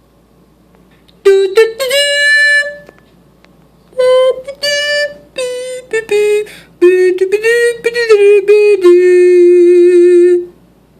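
A short solo melody played one note at a time in a few phrases, ending on a long held note that wavers slightly.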